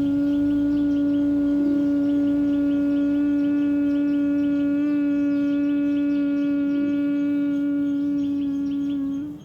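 Bhramari (humming-bee) pranayama: a person humming one long, steady 'mmm' on a single pitch through an exhalation, stopping just before the end. Birds chirp faintly in the background.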